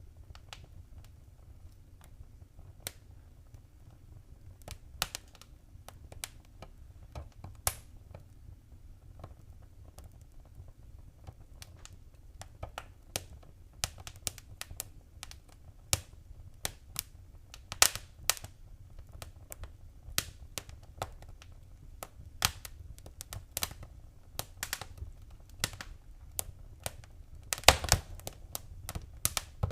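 Wood fire crackling in a fireplace: irregular sharp pops and snaps, a few a second and uneven in loudness, over a low steady rumble, with a loud burst of pops near the end.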